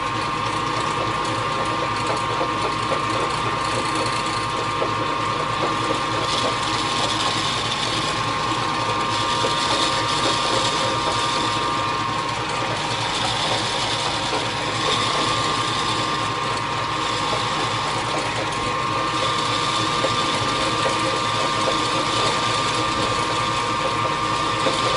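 Machine tool running under power while a boring bar cuts the bore in a steel feed plate, with a steady gear whine. A higher hiss from the cut comes and goes several times.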